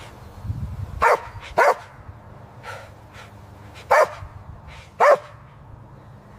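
Dog barking in short, sharp single barks: four loud ones, with a couple of fainter barks between them.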